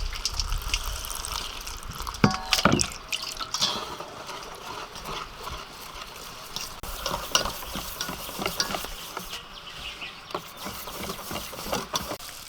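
Food sizzling in a pan while it is stirred, with scattered clicks and scrapes of a utensil against the pan.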